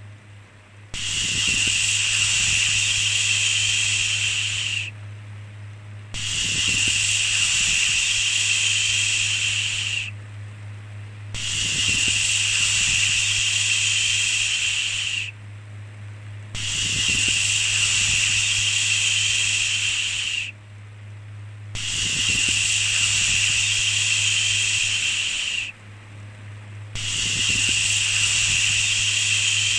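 Shushing 'shhh' sounds repeated in an even rhythm: each hiss lasts about four seconds, followed by a pause of about a second, six times over, with a steady low hum underneath.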